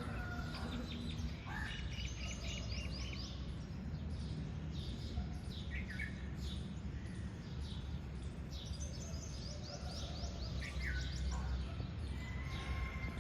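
Birds chirping and twittering: many short, quick notes in clusters, busiest near the start and again toward the end, over a steady low rumble.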